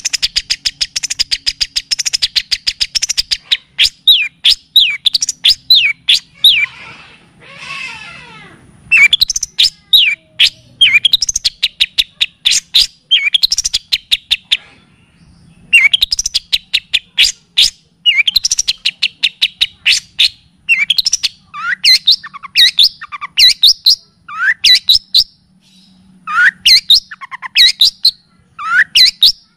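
Recorded songbird song for bird training: a very fast run of repeated high chirps, then a series of short whistled notes that slide downward, about two a second. A harsh, rasping call comes about a third of the way in, and the chirping runs resume after a short pause around the middle.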